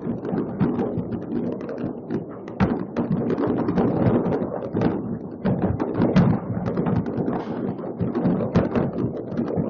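Many fireworks going off at once across a city, a continuous dense rumble of overlapping bangs and crackles, with wind buffeting the microphone.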